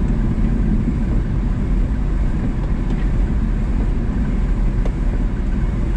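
A 1994 Daihatsu Hi-Jet mini truck's small three-cylinder engine and drivetrain running steadily as it drives over snow-covered ice, heard as an even low drone inside the cab.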